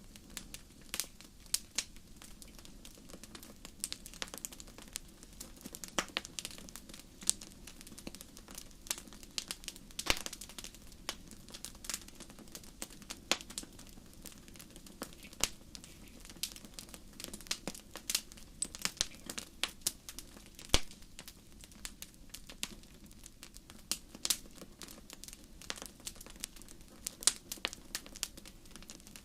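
Wood fire crackling: irregular sharp pops and snaps, several a second, over a low steady hiss of the burning.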